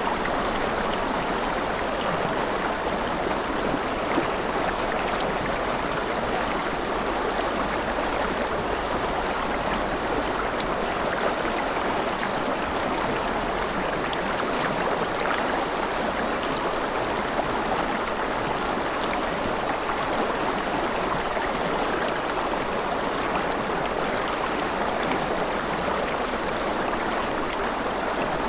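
River water flowing and splashing steadily, a continuous rushing with small gurgles and splashes.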